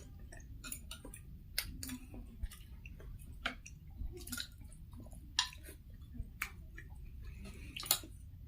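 Close-miked chewing and mouth smacking of people eating, with irregular short sharp clicks, the loudest about eight seconds in.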